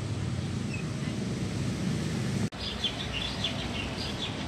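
Outdoor background noise with a steady low rumble, broken by a sudden dropout about halfway through; after it, small birds chirp in quick, high, repeated calls.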